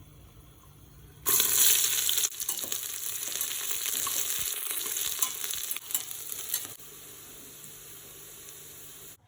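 Onions hitting hot oil and ghee with whole spices in a cooking pot: a loud sizzle starts about a second in, then they fry with a steady hiss and scattered clicks of stirring. The sizzle drops to a quieter level near the end.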